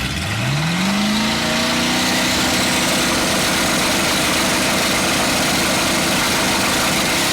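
Twin-turbo Pontiac G8 drag car's Dart 427 V8 revving up sharply over the first second or so, then held at high, steady revs during a burnout.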